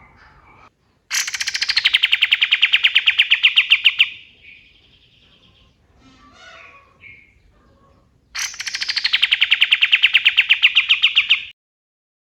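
Kapas tembak songbird giving two long rapid rattling trills, each about three seconds, with softer chirps between them. Each trill starts high, drops quickly, then runs on at a fast, even pulse of about ten notes a second.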